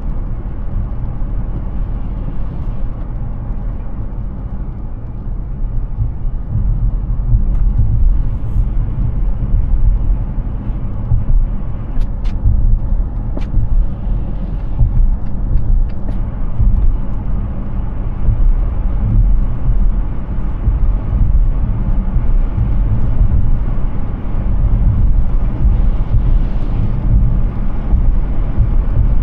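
Tyre and road noise of a Hyundai Ioniq 6, an electric car, driving at speed: a steady low rumble with no engine note, growing louder about seven seconds in. A few brief sharp ticks come a little before halfway.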